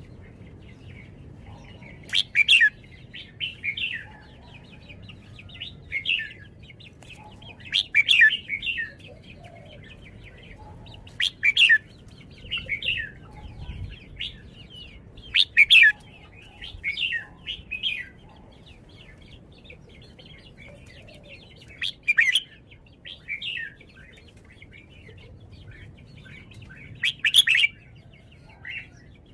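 Red-whiskered bulbul singing: short, loud warbled phrases every few seconds, with softer chirps in between.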